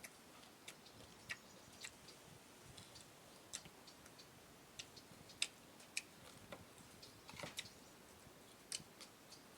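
Faint, irregular clicks and smacks of someone chewing food with the mouth close to the microphone, about a dozen scattered through otherwise near silence.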